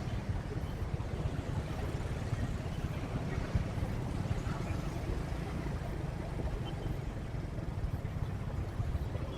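Motorcycle riding in traffic: a steady low engine and road rumble with wind buffeting the microphone.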